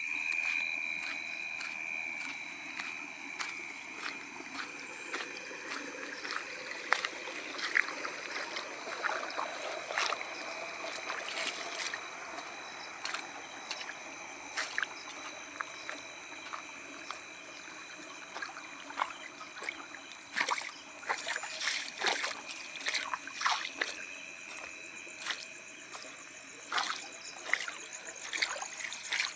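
Rain dripping and splashing on wet ground, with many irregular sharp drips and splatters over a steady wash, and a few steady high-pitched tones underneath.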